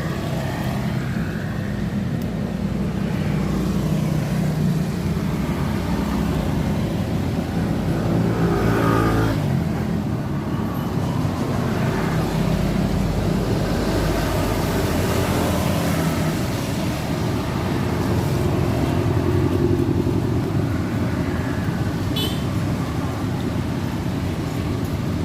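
Steady road traffic noise, with car engines running and passing throughout.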